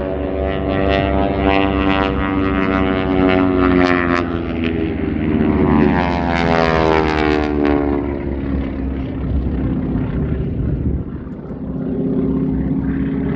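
Propeller airplane flying past, its engine and propeller drone a steady pitched tone that bends in pitch as it goes by, fading for a few seconds before it builds again near the end.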